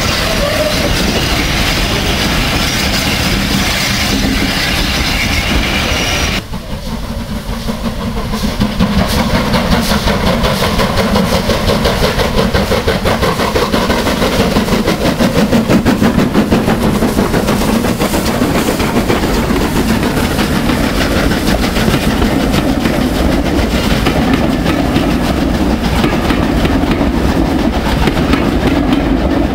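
Steam-hauled train running on the rails, with a fast, even rhythmic beat. The sound changes abruptly about six seconds in, with a brief drop in level before the rhythm builds again.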